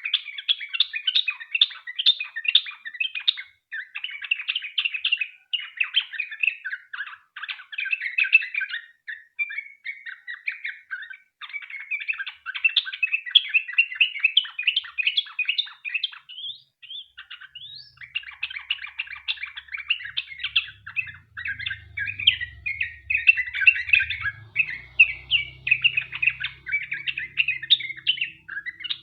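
Yellow-vented bulbul (trucukan) singing a long, rapid run of chattering chirps and warbles, with a brief pause about halfway through.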